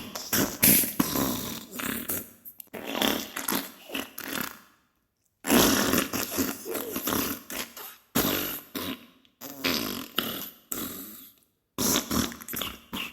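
Diarrhea sound effect: a run of wet, sputtering farts in irregular bursts, broken by a few short silences.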